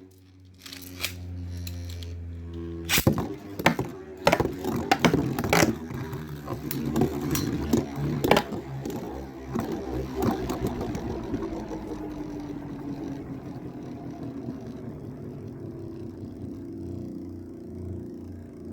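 Two Beyblade spinning tops, Storm Pegasis 105RF and Dark Wolf DF145FS, whirring as they battle. They clash sharply many times in the first half, then settle into a steady whirr that slowly drops in pitch as they lose spin.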